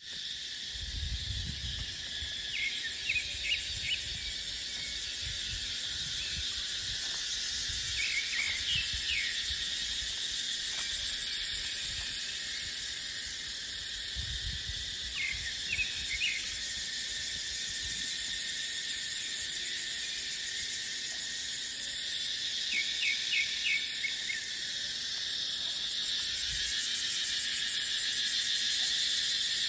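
A chorus of cicadas droning steadily and high-pitched, with a bird chirping in short runs of three or four notes every few seconds. Gusts of wind rumble on the microphone now and then.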